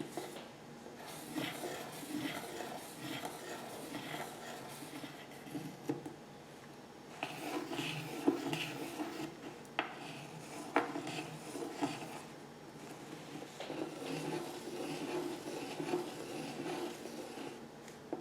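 A Stabilo pencil scratching and rubbing as freehand circles are drawn, with a couple of sharp clicks about ten seconds in.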